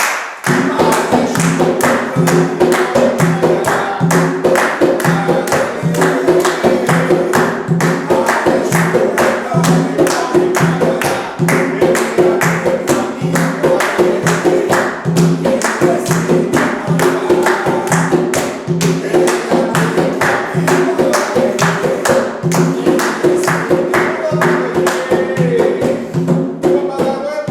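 A group singing an Umbanda ponto (ritual chant) to Exu, with a fast, steady beat of hand drums and clapping. The music fades out near the end.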